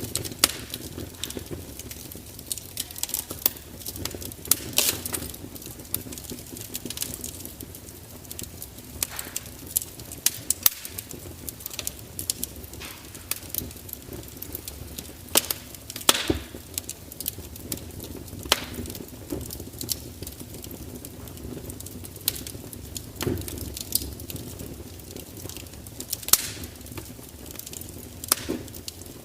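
Wood fire crackling steadily, with irregular sharp pops and snaps from the burning logs, a few louder than the rest.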